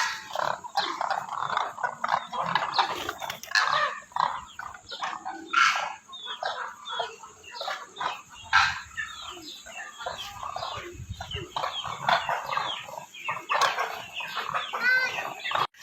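Demoiselle cranes calling, many short overlapping calls at once, as from a flock.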